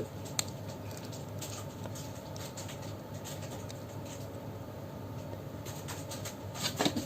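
Faint clicks and light handling noises of hard plastic model-kit parts being moved and fitted together, with a few louder clicks near the end, over a steady low hum.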